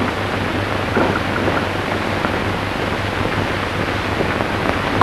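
Steady hiss with a low hum running under it: the background noise of an old optical film soundtrack between lines of dialogue.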